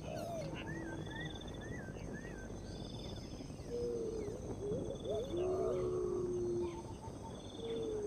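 Bird calls: low wavering whistles, busiest from about halfway through, and a short run of chirps about a second in, over a short buzzing insect trill that repeats every couple of seconds.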